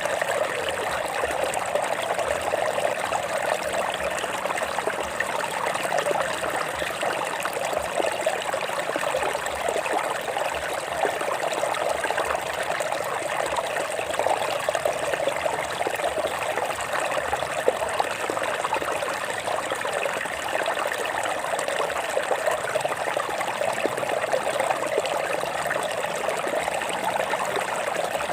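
Stream water trickling and flowing over rocks, a steady babbling with fine splashes and no change throughout.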